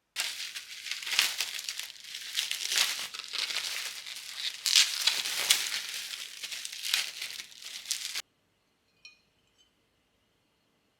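Crinkly packaging being handled, a run of irregular crackles and rustles that stops abruptly about eight seconds in. A faint click follows about a second later.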